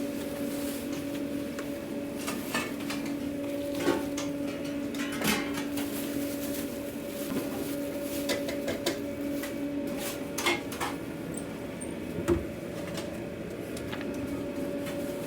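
Steady low hum in a food truck kitchen, with scattered clicks, knocks and clatter of takeout containers and utensils being handled.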